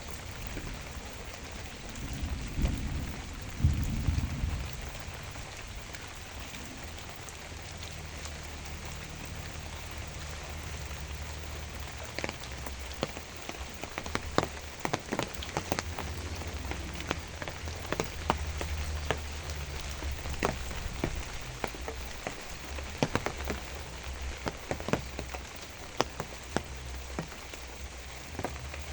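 Steady rain falling, with a low rumble about three seconds in. In the second half, many heavy drops land close by as sharp, irregular taps.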